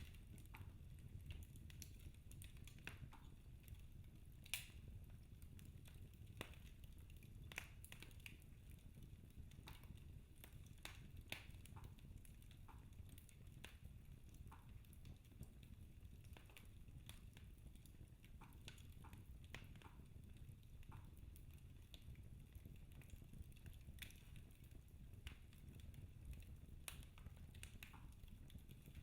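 Wood logs burning in a fireplace, crackling faintly with irregular sharp pops and snaps over the low rumble of the flames.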